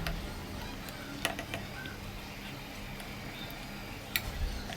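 A spoon stirring thick semolina cake batter in a bowl, with two sharp clinks of the spoon against the bowl, one early and one near the end.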